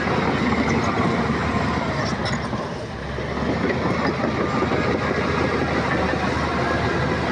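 Shantui crawler bulldozer working: diesel engine running with steel tracks clanking. The noise eases briefly about three seconds in, then picks up again.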